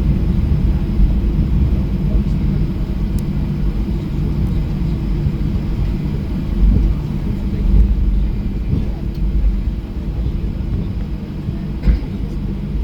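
Steady low rumble of a Boeing 737-800's CFM56-7B engines and airframe heard from inside the passenger cabin, with a faint click about three seconds in and a brief knock near the end.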